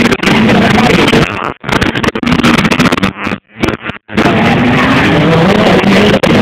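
Dirt-bike engines revving hard, rising and falling in pitch. The sound cuts out briefly about a second and a half in and again near the middle.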